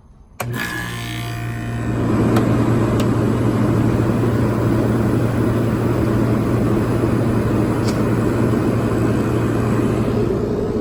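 A Westinghouse-built 24,000 Btu window air conditioner switching on about half a second in. Its Copeland compressor starts with a steady electrical hum, and about two seconds in the fan's rushing airflow builds and then runs on steadily.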